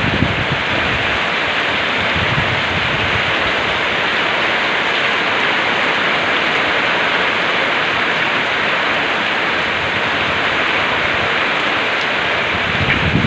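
Steady heavy rain falling on surfaces, an even hiss throughout, with brief low rumbles near the start and near the end.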